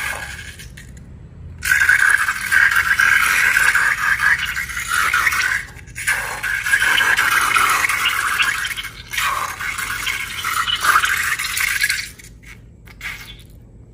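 Scratchy rubbing and scraping from slime-making materials being worked by hand. It runs in long stretches with short breaks about six and nine seconds in, and stops shortly before the end.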